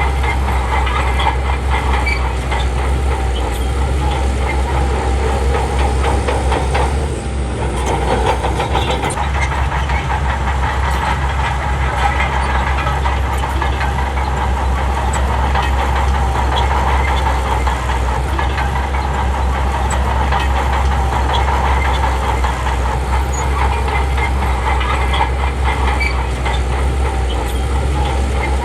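Bulldozer's heavy diesel engine running steadily under load, with a dense clanking clatter from its steel tracks; it eases off briefly about seven seconds in.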